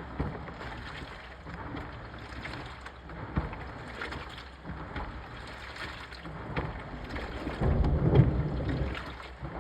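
Washing machine running, water sloshing and churning in the drum, with scattered small knocks and a louder low rumble about eight seconds in.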